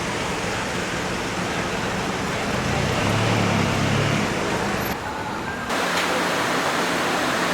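Steady city road traffic noise, with a vehicle's low engine hum rising out of it about two and a half seconds in and fading a second and a half later. The background changes abruptly near the middle.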